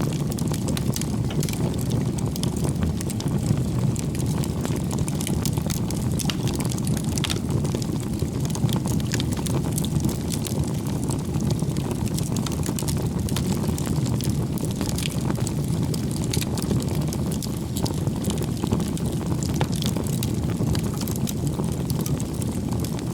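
Wood campfire burning steadily: a low rush of flames with frequent small crackles and pops of burning firewood scattered throughout.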